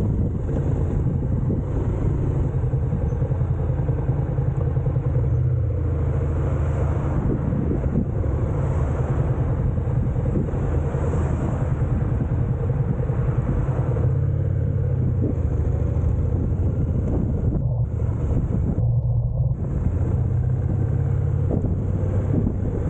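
Honda NC750X DCT motorcycle running at a steady speed: the parallel-twin engine drones low and even under a steady rush of riding noise.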